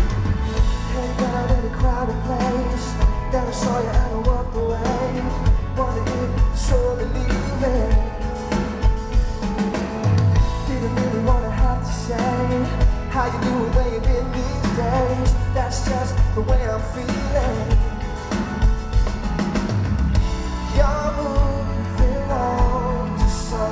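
A live pop-rock band playing at a concert, with a lead singer over drums, bass and guitar, heard loud from the front row.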